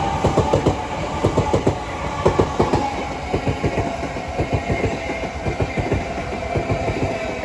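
Southeastern Class 376 Electrostar electric train running through the station, wheels clacking rapidly over rail joints, with a motor whine that slowly falls in pitch as the train slows.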